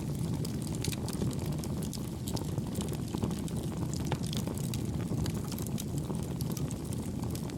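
Campfire burning: a steady low rumble of flames with many small, soft crackles and pops of the burning wood scattered throughout.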